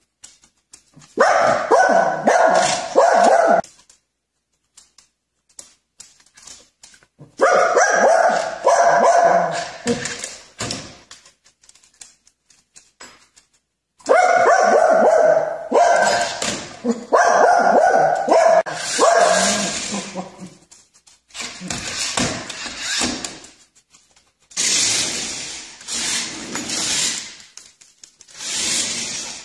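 A dog barking in rapid runs, in about five loud bouts with short pauses between them.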